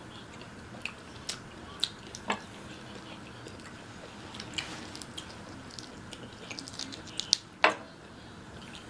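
Wet chewing and smacking of people eating, with scattered short clicks and one sharper click near the end.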